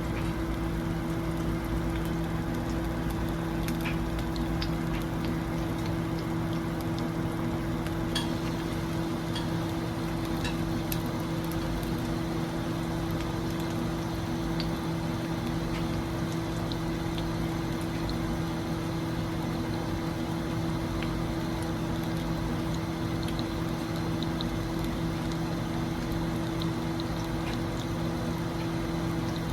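Food sizzling as it cooks: a steady hiss with scattered small pops and crackles, over a steady low hum.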